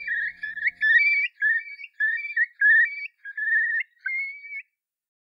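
A songbird singing a string of quick warbled phrases that stops abruptly about four and a half seconds in. Under it, the last held notes of viola-and-piano music fade out about a second in.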